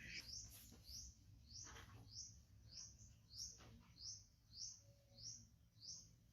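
A small bird chirping over and over, faintly: short, high, falling chirps at an even pace of a little under two a second.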